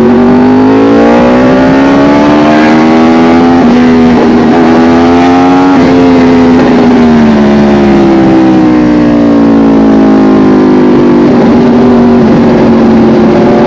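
Yamaha R1 sportbike's engine running under way. Its note climbs at the start, holds with two brief dips, then falls slowly over several seconds as the bike slows, with a steady rushing noise underneath.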